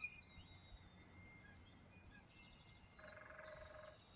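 Quiet outdoor ambience with faint distant bird chirps. About three seconds in, a faint buzzy trill lasts about a second.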